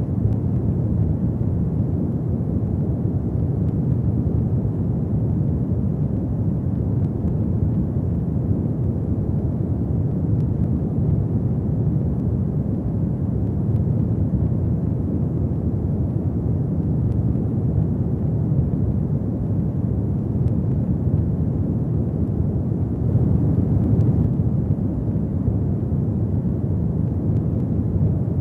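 Fireplace fire burning with a steady low rumble and a few faint crackles, swelling briefly about three quarters of the way through.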